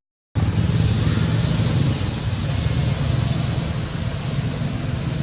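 Steady low rumbling outdoor background noise, beginning after a moment of silence at the very start.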